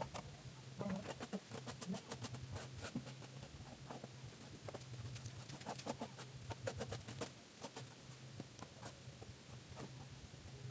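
Plastering trowel working a cement-plastered wall: uneven runs of quick, light clicks and scrapes over a steady low hum.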